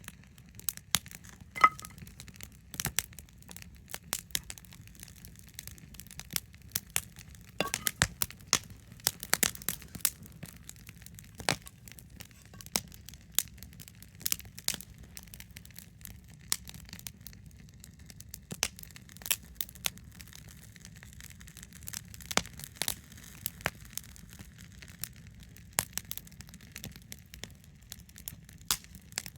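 Wood campfire crackling: irregular sharp pops and snaps, a few of them louder, over a faint low rumble.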